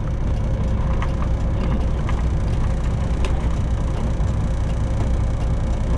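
Straight-piped Detroit diesel engine of a Freightliner Classic XL semi truck running steadily, heard inside the cab as a low drone with a faint steady tone above it.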